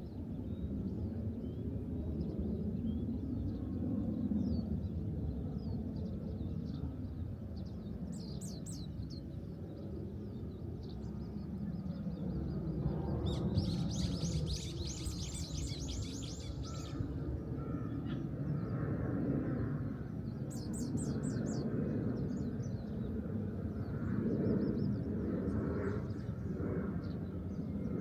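Small birds chirping in short bursts, with one fast trill lasting about three seconds midway, over a steady low rumble.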